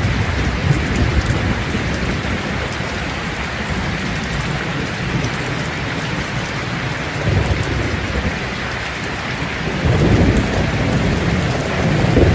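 Steady rain falling, with low rolls of thunder that swell about seven seconds in and again near the end.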